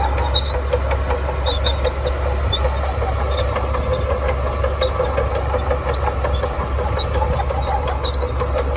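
Shantui DH17C2 bulldozer's diesel engine running steadily under work, with a rapid irregular clatter and occasional short high-pitched squeaks from the machine.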